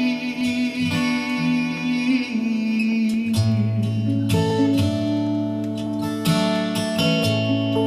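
Acoustic guitar played in an instrumental passage between sung verses of a folk song: picked and strummed chords ringing on, with a new chord change about three and a half seconds in.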